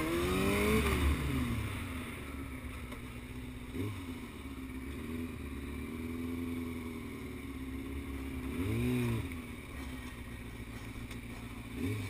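Dirt bike engine revving in blips: a hard rev at the start that falls back over a couple of seconds, then idling with short throttle blips about a third of the way in, two-thirds of the way in and at the end.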